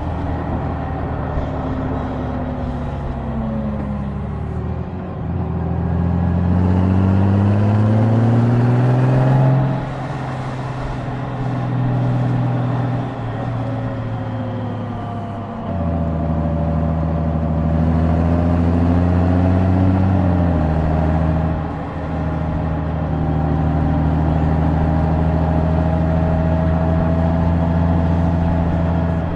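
Honda Gold Wing's flat-six engine pulling under throttle: its pitch climbs twice, each climb ending in a sudden drop as the dual-clutch gearbox shifts up, then it runs steadily at cruise.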